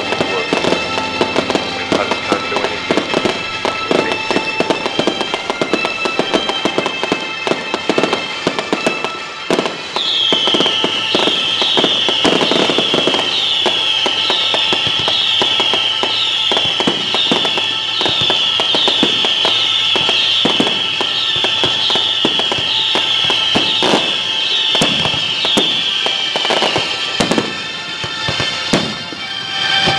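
Fireworks display: a dense run of bangs, pops and crackling from bursting shells. From about a third of the way in until near the end, a string of short, falling whistles comes about once a second.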